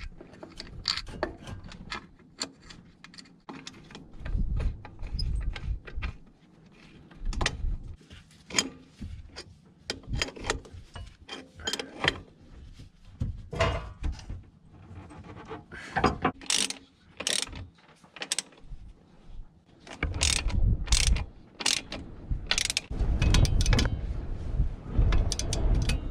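Hand socket ratchet clicking in short runs as bolts are turned, with scattered knocks of tools and parts.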